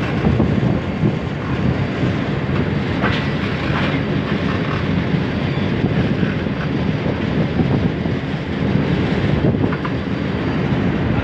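Pakistan Railways passenger train running along the track, heard from an open coach doorway: a steady rumble of wheels on rails with light clicking and clatter.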